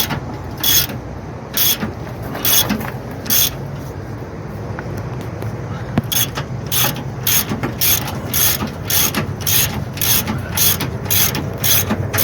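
A hand ratchet wrench clicking in repeated strokes as a shock absorber mounting bolt is run in by hand. The strokes come about once a second at first. After a pause of about two seconds they pick up to about three a second.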